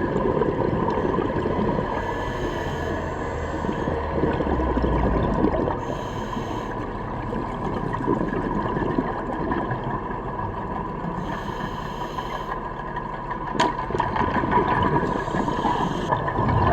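Underwater sound of a scuba dive: a dense gurgling rumble of bubbles with a short hiss every few seconds, the diver's regulator breathing.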